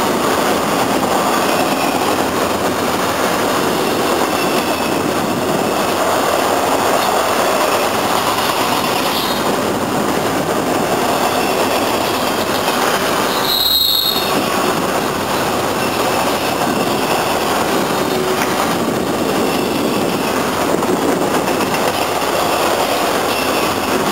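A train rolling past with steady wheel-on-rail noise, faint high wheel squeals now and then, and one brief, sharper squeal about two-thirds of the way through.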